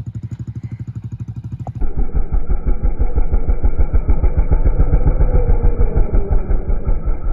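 Hero Splendor motorcycle's single-cylinder four-stroke engine running with an even low pulse, then, after a sudden change about two seconds in, louder and harder under throttle as the bike climbs a slope and lifts its front wheel.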